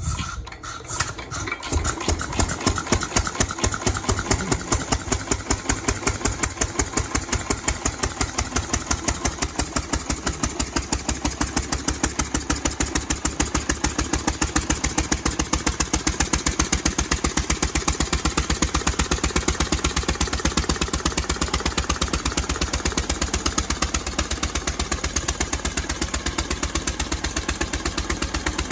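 Single-cylinder Cushman Bean Special Cub hit-and-miss engine running, settling about two seconds in into an even, rapid firing beat. It is running again after more than five years unused.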